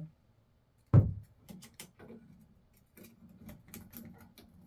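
A sharp knock about a second in, then a scatter of light clicks and taps: small parts and tools being handled during a shower cartridge replacement.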